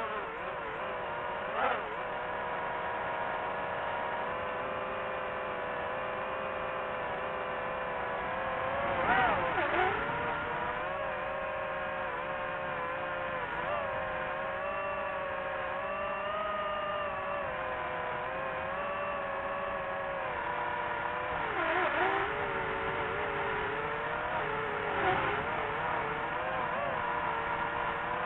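Quadcopter drone's motors and propellers whining steadily, with a brief dip and rise in pitch about a third of the way in and twice more near the end.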